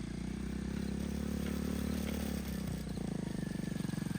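A mini bike's small engine running under way, growing slowly louder, with a brief dip in engine note a little past halfway, as when the rider changes gear.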